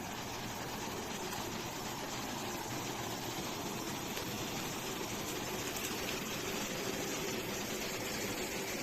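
River water flowing, a steady rush without breaks.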